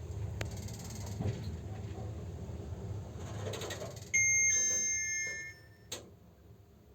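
MLM passenger lift with a steady low hum, then a loud two-tone electronic chime about four seconds in, lasting about a second and a half, followed by a single click.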